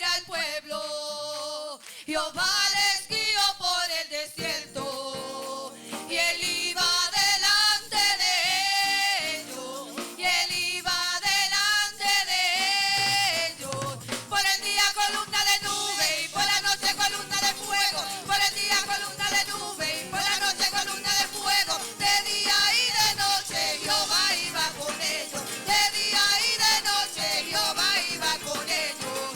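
A congregation singing a Spanish-language worship chorus. About halfway through, percussion and a band come in under the voices with a steady Latin beat.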